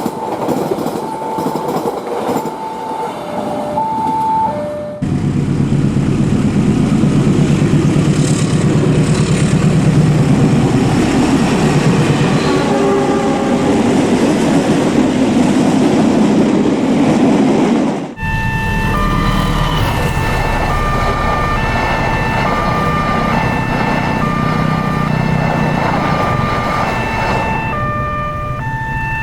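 Level-crossing warning bell beeping in a repeating two-tone pattern, then a diesel-electric locomotive-hauled train passing close with a loud, steady engine drone and wheel noise. About five seconds in and again about eighteen seconds in, the sound cuts abruptly, and the crossing bell's repeating beeps return over the rumble of the train.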